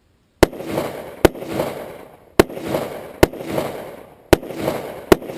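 Rifle fire in rapid pairs: six sharp shots, the two in each pair under a second apart and the pairs about two seconds apart. Each shot trails off in a long echo.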